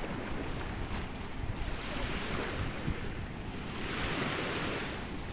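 Sea waves breaking and washing ashore, with wind buffeting the microphone; the surf hiss swells twice, about two seconds in and more strongly about four seconds in.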